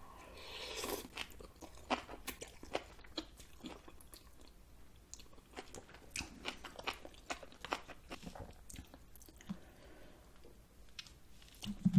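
Close-miked eating of spicy noodle soup: a soft slurp as noodles are drawn in during the first second, then many short, wet chewing clicks.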